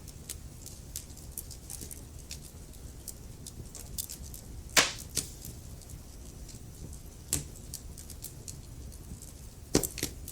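Wood fire burning in a fireplace: a steady low rumble of flames with frequent small crackles and a few louder sharp pops, the loudest a little under halfway through and another pair near the end.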